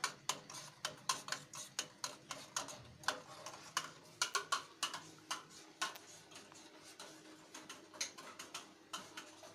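A spoon stirring milk and cocoa in a cezve, clicking and scraping against the pot several times a second in an uneven rhythm.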